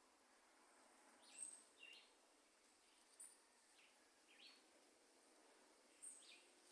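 Near silence: faint outdoor ambience with a handful of soft, short bird chirps scattered through.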